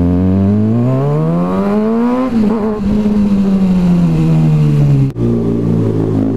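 Kawasaki ZX6R 636 inline-four with a full M4 aftermarket exhaust: the engine pitch rises for about two seconds as the bike accelerates, then sinks slowly as it rolls off. About five seconds in the sound breaks off abruptly and the engine carries on at steady low revs.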